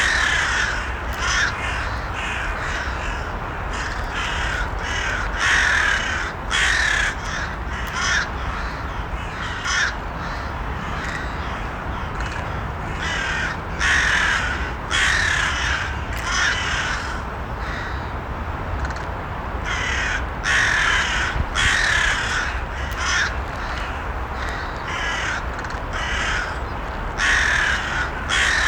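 Crows cawing, harsh calls coming every second or two at irregular intervals, over a steady low background rumble.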